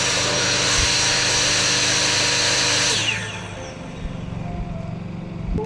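Power tool motor running flat out, then switched off about three seconds in and winding down with a falling whine. A lower steady hum carries on underneath.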